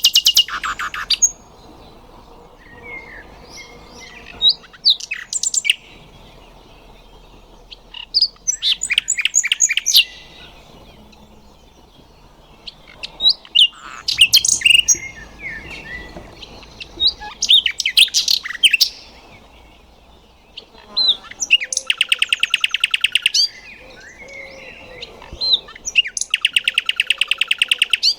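Common nightingale singing: about seven separate phrases of whistles and fast repeated high notes, each lasting a second or two, with pauses of a couple of seconds between them.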